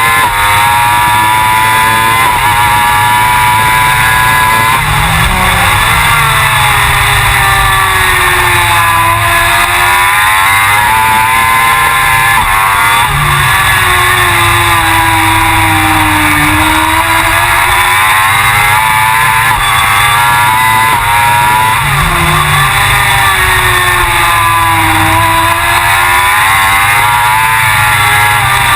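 Suzuki GSX-R1000 superbike's inline-four engine at racing speed, revs climbing and dropping over and over, with sharp falls in pitch several times.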